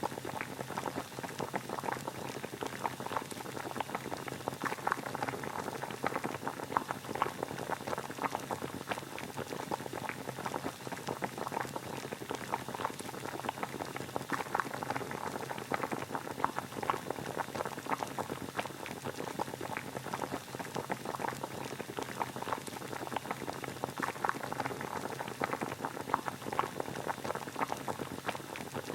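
Water boiling steadily, a continuous dense bubbling and popping.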